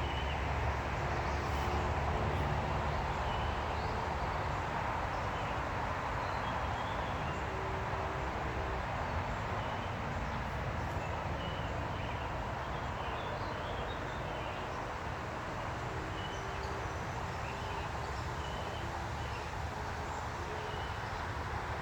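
Steady outdoor rumble and hiss with many short, faint bird chirps scattered through it.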